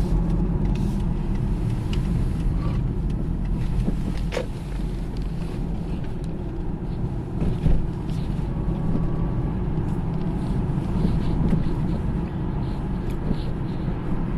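Hyundai ix35 on the move: steady road and drivetrain rumble with a faint whistle that comes and goes, the whistle of a worn driveshaft carrier (centre support) bearing.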